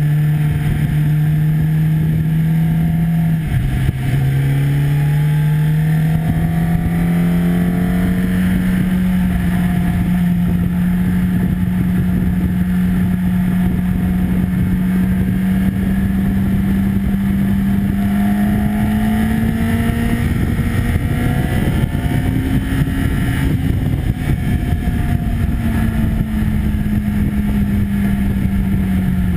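Sport motorcycle engine pulling hard on track, heard from onboard with heavy wind rush. Its pitch dips once a few seconds in, a gear change, then climbs slowly and steadily to a peak a little past the two-thirds mark before easing down near the end.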